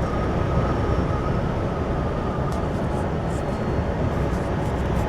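Steady engine and road noise of a truck heard from inside its cab, an even rumble with no break, a faint thin tone over it in the first half.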